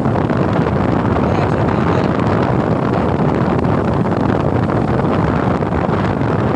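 Steady wind noise buffeting the microphone of a moving motorcycle, with the ride's rumble underneath.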